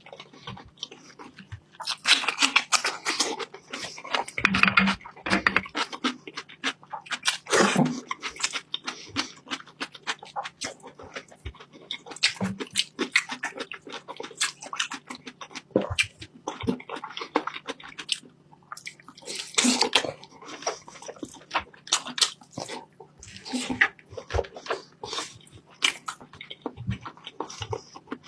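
A person eating close to the microphone, with wet chewing and mouth smacks in irregular clicks and short bursts, loudest in a few clusters.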